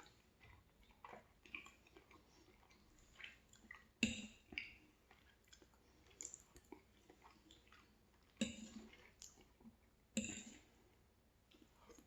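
A person chewing food close to the microphone, with small wet mouth clicks and three louder bites or smacks about four, eight and a half and ten seconds in.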